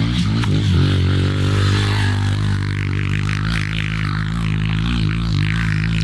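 Pit bike engine running at a nearly steady speed, its pitch wavering only slightly.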